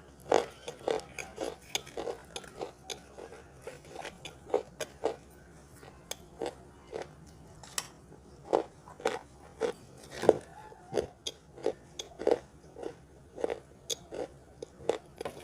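A person biting into and chewing large pieces of eating chalk and clay: a string of dry crunches and snaps, several a second, at an uneven pace.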